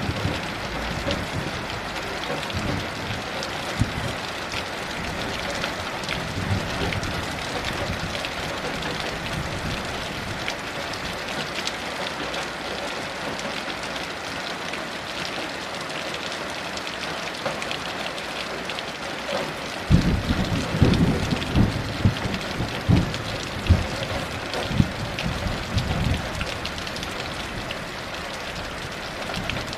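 Heavy rain falling steadily. About two-thirds of the way through, a roll of thunder breaks in suddenly with low rumbling and sharp cracks that last several seconds.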